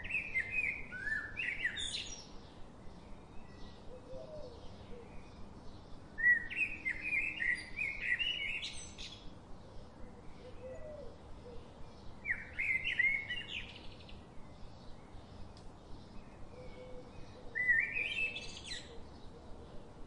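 A songbird singing a short warbled phrase four times, about every five to six seconds, over a faint steady ticking chirp.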